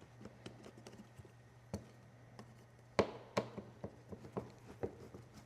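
Scattered light clicks and taps of a hand screwdriver and screws as the airbox screws are started by hand, with two sharper clicks about three seconds in.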